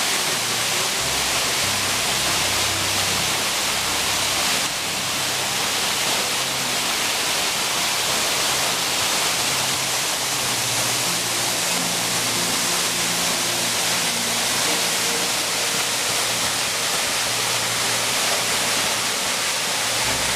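Waterfall cascade with water pouring down steadily in an even, unbroken rush.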